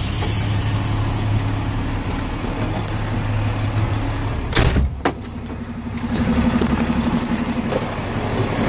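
Refrigerated van's engine running steadily, with a door banging shut about four and a half seconds in: two sharp knocks close together.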